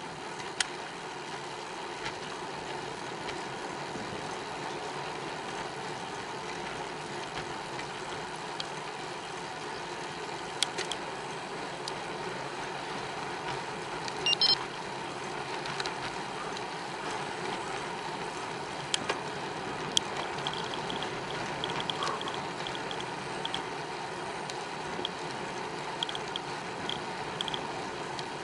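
Steady rolling and wind noise of a bicycle ride, with scattered clicks and rattles and a light, rapid ticking in the second half.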